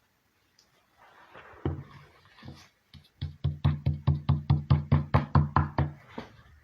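A rapid, even series of knocks, about five a second, for roughly three seconds, after a few scattered knocks.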